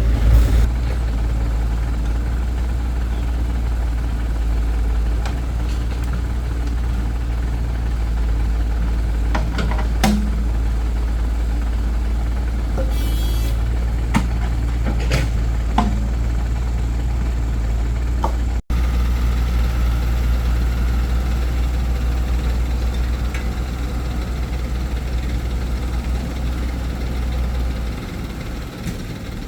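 Diesel engine of heavy earth-moving machinery running steadily with a low rumble, with a few sharp clanks around the middle.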